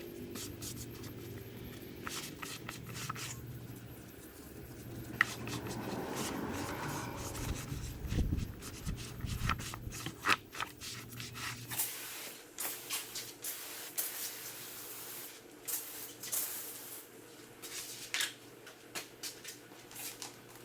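Car detailing work: brushes and cloths rubbing and scrubbing on the vehicle's surfaces in short strokes and taps, over a low steady machine hum that cuts off about twelve seconds in.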